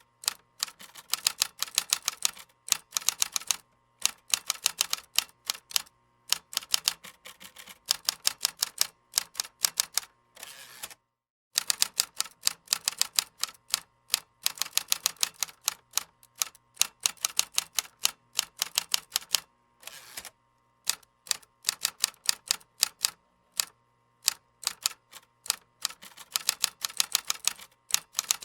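Typing on a computer keyboard: runs of rapid keystroke clicks broken by short pauses, with a brief complete stop about eleven seconds in.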